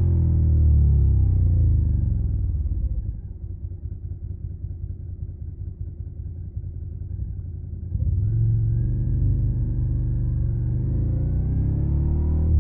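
Suzuki SV650's V-twin engine through a Yoshimura Alpha carbon exhaust, its pitch falling as the revs drop over the first few seconds, then running quieter as a low, pulsing rumble at low revs. About eight seconds in it gets louder and the pitch climbs as the engine revs up and accelerates.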